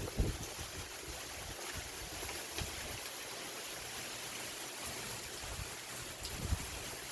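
Steady hiss of wind-driven rain from a tropical storm, with a few faint ticks of drops.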